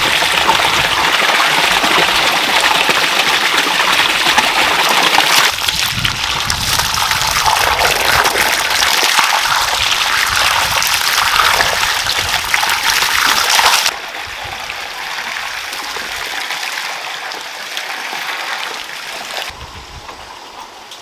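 Water gushing and splashing loudly, then dropping suddenly to a quieter running trickle about two-thirds of the way through.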